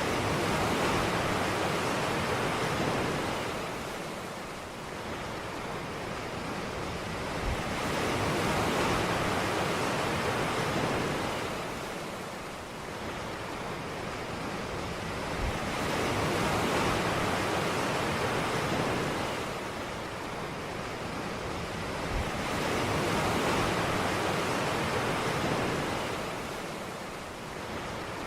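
Ocean surf washing onto a beach, the noise of the breaking waves swelling and ebbing in slow surges about every eight seconds.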